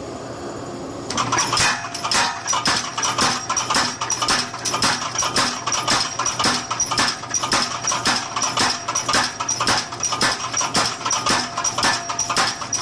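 Mechanical power hammer striking in a rapid, even rhythm, each blow a sharp metallic clang with a ringing tone, starting about a second in.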